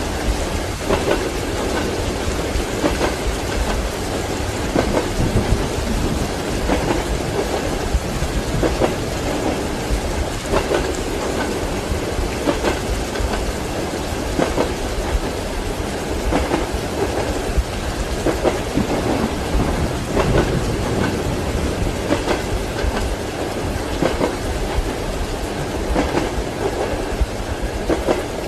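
Steady rain mixed with a train's wheels clacking over the rail joints in a regular rhythm, about once a second.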